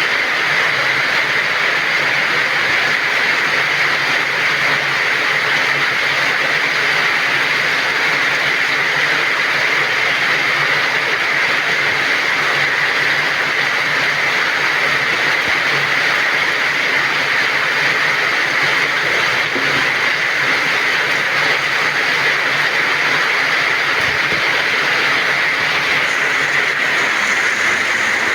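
Heavy rain falling steadily, a dense, even hiss that neither builds nor fades.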